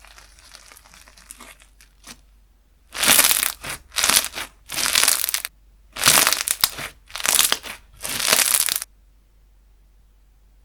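Slime being squeezed and pressed by hand, giving crackling, crunching sounds: faint at first, then a run of about six loud squeezes spread over six seconds.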